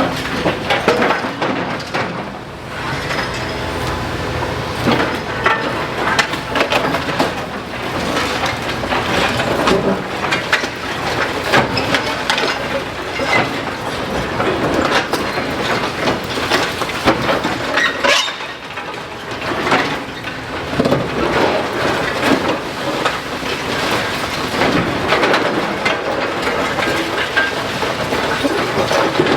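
Demolition excavator breaking up a brick building: continuous crunching and cracking of masonry and timber, with debris clattering and clinking as it falls, over a low engine hum.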